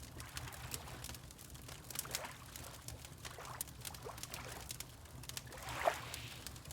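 Water lapping with small gurgles and splashes, the clearest one near the end, over the scattered crackle of a wood fire and a low steady rumble.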